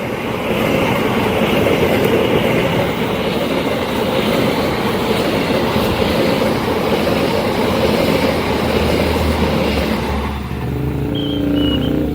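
A passing train running loudly over the rails, a steady rush of wheel and rail noise that drops away about ten seconds in as the train clears.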